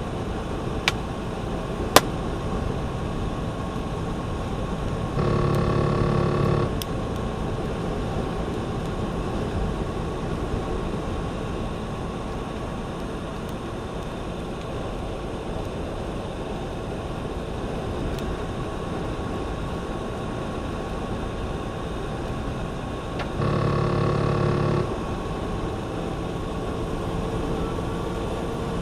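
Steady cabin and road noise from a truck driving. Two sharp clicks come near the start, and a steady pitched tone sounds twice, each time for about a second and a half, some 18 seconds apart.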